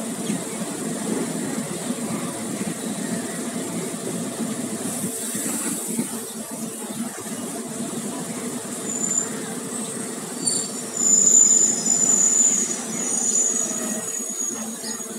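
Passenger train running over the track, heard from the coach's open doorway: a steady rumble of wheels and coach. From about nine seconds in, a high-pitched wheel squeal comes and goes, loudest around eleven to thirteen seconds.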